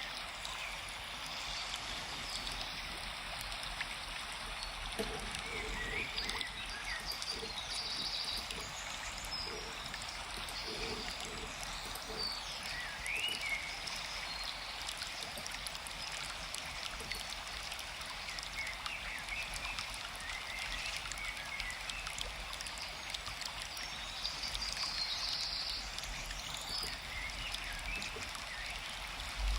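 Forest stream flowing steadily, with birds chirping briefly now and then.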